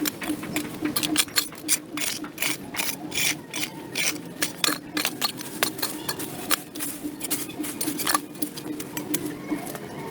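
Rapid, irregular scraping and clicking strokes of a hand tool working dirt on a sidewalk, over a steady low hum.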